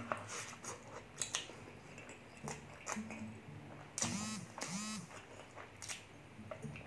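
Close-up eating sounds: wet chewing and mouth clicks from eating braised pork leg and rice by hand. About four seconds in there are two short voiced sounds with breathy hiss. Soft background music plays underneath.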